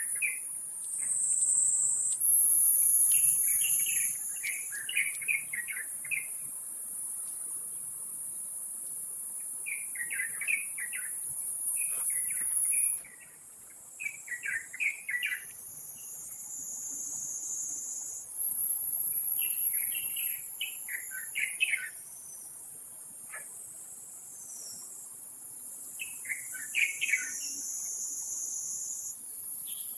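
Short bursts of rapid, chattering bird calls every few seconds over a steady high-pitched insect drone that swells louder now and then.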